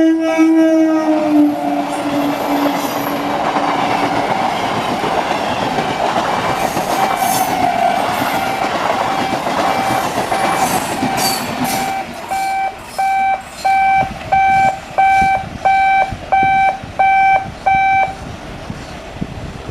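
An Indian Railways electric multiple unit (EMU) train passing close by: its horn sounds and drops in pitch as it goes past, followed by the loud rush and clatter of the carriages on the rails. Later a high beeping tone repeats about twice a second for several seconds, then stops.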